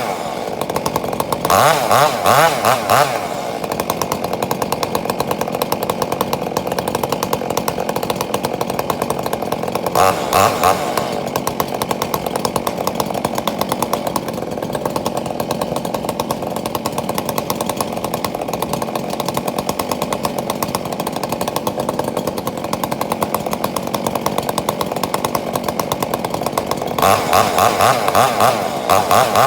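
Chainsaw running steadily, revving up louder three times: about a second and a half in, around ten seconds in, and near the end.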